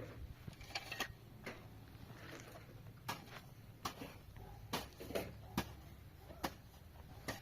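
A series of light, sharp knocks and clicks at irregular intervals, about one every half second to a second, over a faint steady low hum.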